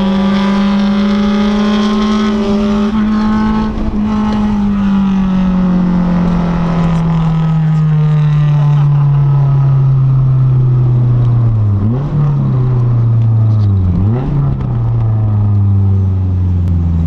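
Loud sports car exhaust running steadily under way, its engine note sinking slowly in pitch. Near the end the note twice dips briefly and comes back.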